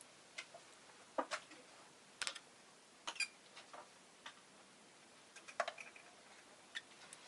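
Rosy-faced lovebird making scattered small clicks and taps, about a dozen at irregular intervals, over a faint steady hiss.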